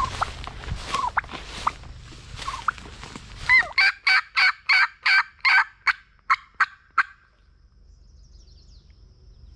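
Footsteps shuffling through dry leaves, then a hunter's turkey call sounding a run of about ten loud hen yelps, roughly three a second, stopping about seven seconds in.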